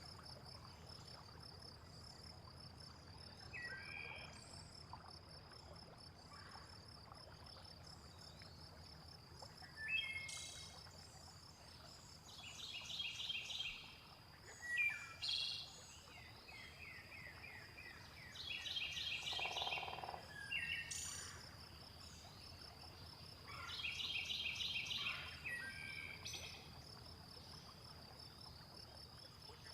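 Nature soundscape: a continuous high, pulsing insect trill, like crickets, with birds singing short phrases every few seconds over a steady low water rush.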